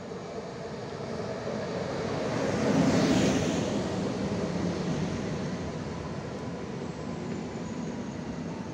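Electric multiple unit passing through the station at speed. The noise swells to its loudest about three seconds in as the front goes by, then carries on as a steady rumble of wheels on rails, easing slowly as the carriages pass.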